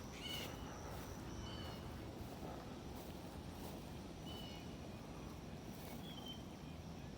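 Distant ducks calling: about four short, high calls spaced a second or more apart over a steady low background noise.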